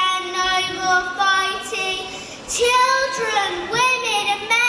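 A young child singing with long held notes, the pitch bending and wavering, with a short break about two and a half seconds in.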